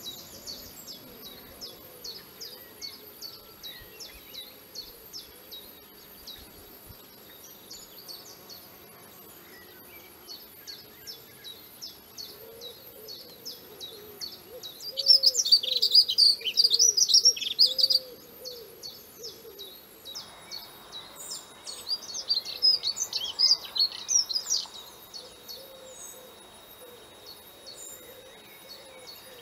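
Birds calling: a steady run of short high chirps a few times a second, with two louder bursts of dense song about halfway through and again a few seconds later, and faint low calls beneath.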